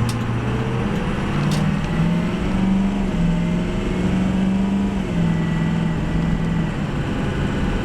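Ford 6.0-liter Powerstroke turbo-diesel V8 of a 2003 F350 Super Duty running under way, with road noise. The low engine drone is steady, its pitch shifting up and down a little as the speed changes.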